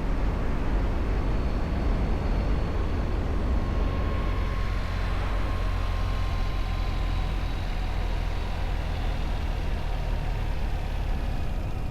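Motorcycle riding at steady speed: a low engine rumble under steady wind rush, with a faint whine that slowly falls in pitch.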